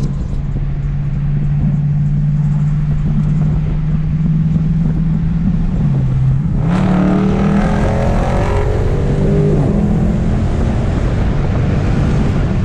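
2019 Dodge Charger Scat Pack's 392 Hemi V8 running at a steady cruise with a deep exhaust drone. About six seconds in the note dips briefly, then rises in pitch as the engine pulls harder.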